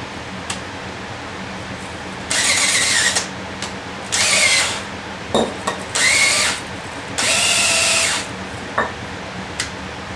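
Power drill run in four short bursts of about a second each, its motor whine dipping and rising in pitch as it works, with a few small clicks between bursts.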